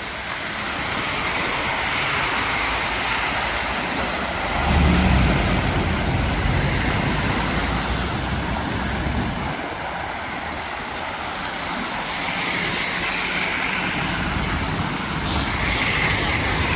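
A car passing on a wet road, its engine rumble rising about four and a half seconds in and fading after about nine seconds, over a steady rushing hiss.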